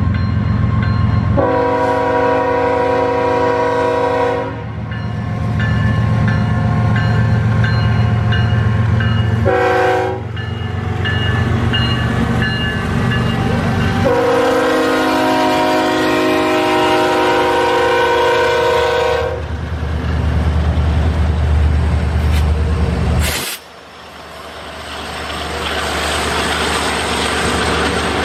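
Diesel locomotives of a loaded BNSF coal train sounding a multi-tone air horn in a long, a short and a long blast, the pattern that ends the standard grade-crossing signal, over heavy engine rumble as they pass. About 23 seconds in, the engine sound drops off sharply and gives way to the steady rolling rumble and wheel noise of loaded coal cars going by.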